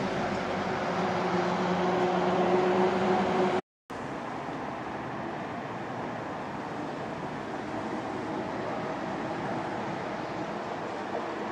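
An approaching train drones with a steady hum, growing louder. The sound cuts off abruptly a little under four seconds in. A quieter, steady rumble of a train approaching in the distance follows.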